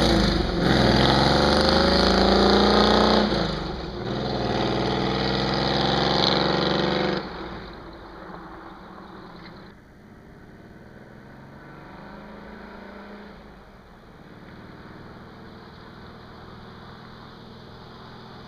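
Jeep CJ7's AMC 258 inline-six through a Magnaflow dual exhaust, accelerating hard past in two rising pulls with a break for a gear change about three and a half seconds in. The engine is loud and blatty under throttle, which the owner finds too loud. About seven seconds in the sound falls away sharply, and the engine stays faint in the distance from then on.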